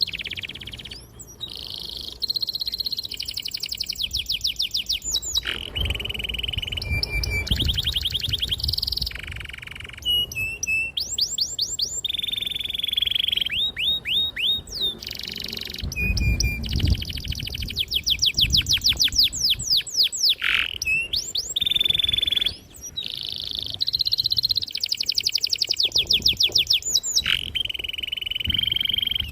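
Domestic canary singing a long, unbroken song of rapid trills and rolls, with held high notes in between.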